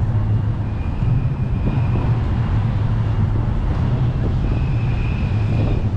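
Steady low rumble of city traffic with wind noise on the microphone; a faint high whine comes in twice.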